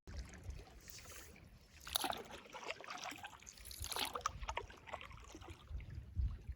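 Faint canoe paddle strokes in the water, two clearer splashes about two seconds apart with lighter water sounds between.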